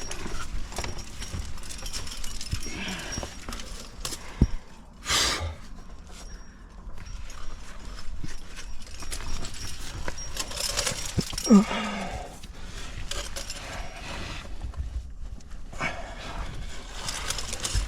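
A rock climber panting and grunting with effort while squeezing up tight rock, with irregular breaths throughout and a short falling groan about eleven seconds in.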